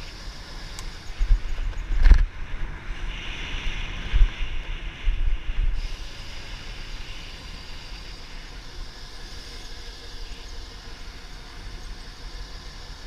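Razor MX500 electric dirt bike being ridden: steady motor and road noise with wind buffeting the microphone, gustier in the first half, and a sharp knock about two seconds in.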